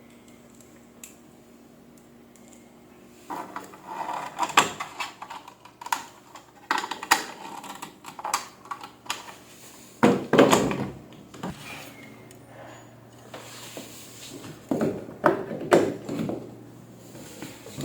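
Workshop handling noises: an irregular series of knocks, clicks and rattles as parts and tools are handled, starting a few seconds in.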